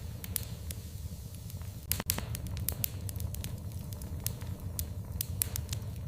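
Wood fire in a fireplace crackling: irregular sharp pops and snaps over a steady low rumble of the flames, with a louder pop about two seconds in.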